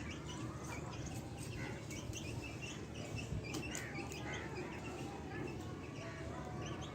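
Many birds chirping, with short, overlapping chirps and calls scattered through, over a low steady hum.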